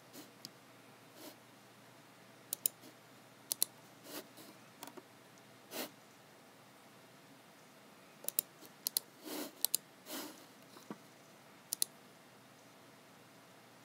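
Computer mouse and keyboard being used: scattered sharp clicks, several in quick pairs, with a few softer brushing sounds between them. The clicks come irregularly, not as steady typing.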